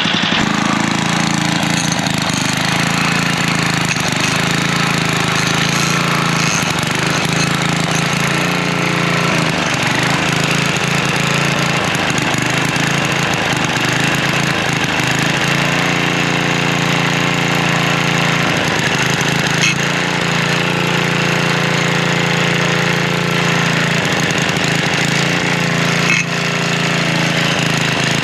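Craftsman edger's 3-horsepower, 80 cc Tecumseh single-cylinder engine running steadily, with a brief dip in level near the end.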